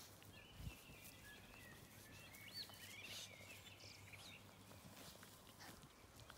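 Near silence: quiet countryside ambience with faint birdsong, a series of short whistled notes and a trill, over a low steady hum. Scattered faint clicks and one soft thump about two-thirds of a second in.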